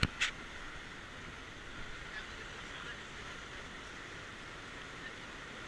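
Steady rush of fast-flowing river water, an even noise with no distinct events, after a brief sharp burst right at the start.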